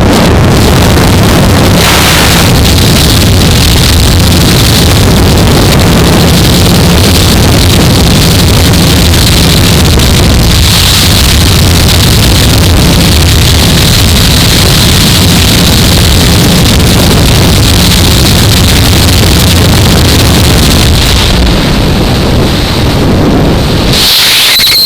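Heavy wind rush over a helmet camera with a 2015 Yamaha R3's parallel-twin engine running steadily underneath. A little before the end the wind rush eases, and about a second before the end the engine sound briefly drops away.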